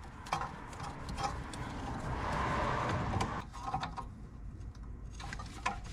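Small clicks and handling noises of wiring being worked on by hand, with a soft rustling swell about two seconds in and a steady low hum beneath.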